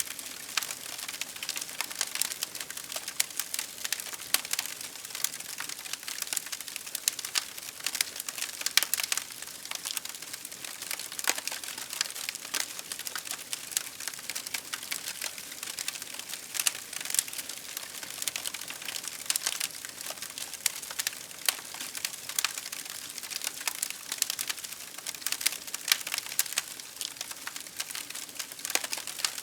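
Wood fire burning in a fireplace, crackling steadily with many small snaps and pops over a soft hiss, a few louder pops standing out.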